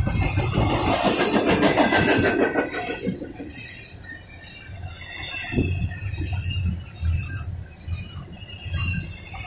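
Double-stack intermodal well cars rolling past on the rails: a steady low wheel rumble with rapid clatter. It is loudest for the first three seconds or so, then drops to a quieter rumble.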